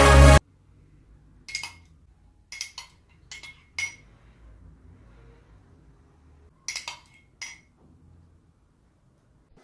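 Light clinks of dishes and utensils, glass or crockery knocking together, in two small clusters a few seconds apart. Background music cuts off just at the start.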